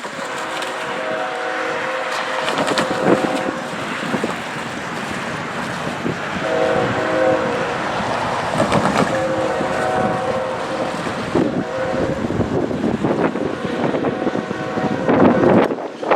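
Diesel freight locomotive's air horn sounds three blasts, long, shorter, then long, over the steady rumble and rattle of a moving train.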